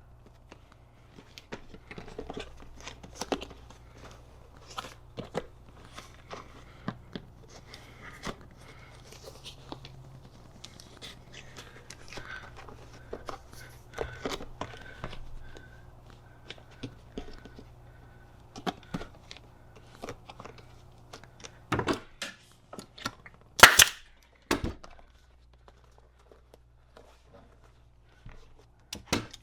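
Hands and a tool working at a stapled motorcycle seat cover on its seat pan, trying to pull something out: a long run of small clicks, taps and scrapes, then a few sharp snaps between about twenty-two and twenty-five seconds in, the loudest a crisp crack near twenty-four seconds. A low steady hum runs underneath.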